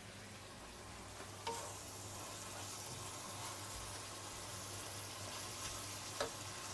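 Chicken pieces with garlic and seasoning sizzling steadily in hot sesame oil in a pan, with two light knocks, about a second and a half in and near the end.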